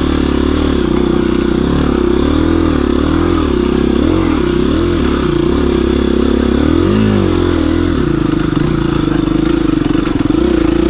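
KTM 350 EXC-F single-cylinder four-stroke engine pulling in second gear under throttle on a trail climb, its revs rising and falling as the throttle is worked, with a sharp rev rise and drop about seven seconds in.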